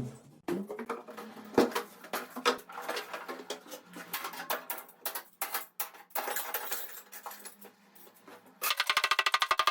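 Irregular knocking and clattering, as of broken material and debris falling and striking, over a faint steady hum. Near the end a fast, even rattle of about ten strokes a second sets in.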